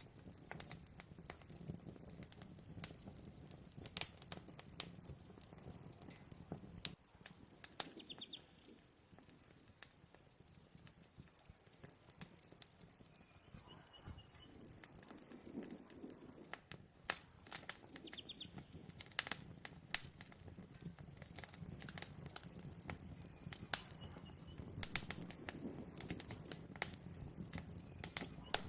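A chorus of crickets chirping in a steady rapid trill, pausing briefly a little past halfway. Over it, a campfire crackles with frequent sharp pops.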